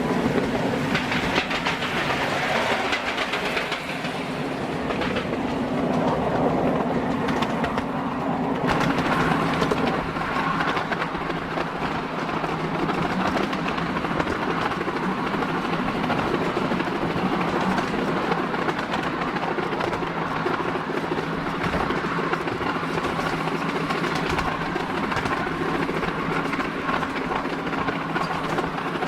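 Miniature railway train running, its wheels clattering on the rails over a steady engine hum.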